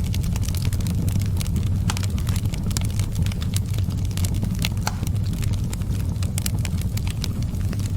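Wood fire burning in a fireplace: frequent irregular crackles and sharp pops over a steady low rumble.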